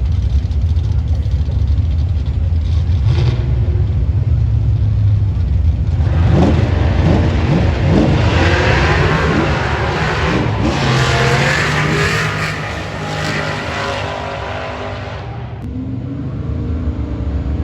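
Car engine rumbling low, then revving hard from about six seconds in as the car accelerates, with loud engine and exhaust noise that eases off a few seconds before the end and rises again right at the end.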